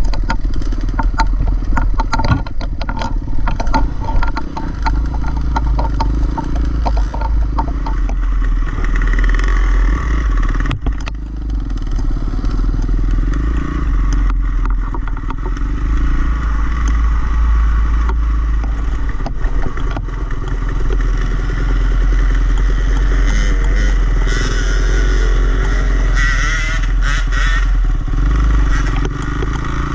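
Dirt bike engine running with the throttle rising and falling, with clattering and knocks from the bike over rough trail during the first several seconds.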